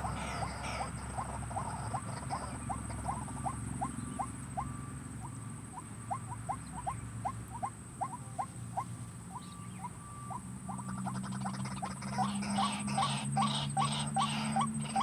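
White-breasted waterhen calling: a long run of short, rising notes at about two a second, louder and faster from about ten seconds in, over a steady high insect whine.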